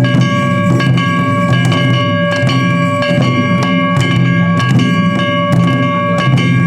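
Japanese festival music: drums and other percussion struck again and again under a steady, held high-pitched tone.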